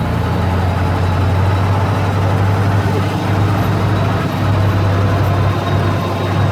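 Engine of a large ride truck running steadily, a deep, even hum under road and wind noise, heard from aboard the vehicle.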